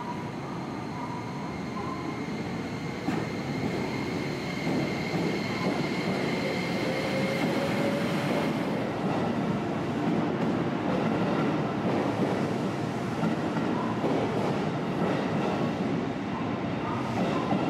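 JR West 281 series 'Haruka' limited express electric train moving along the platform. In the first half a steady electric motor whine sits over the rumble; from about halfway the whine fades and the wheels rumble louder over the rails as the cars pass.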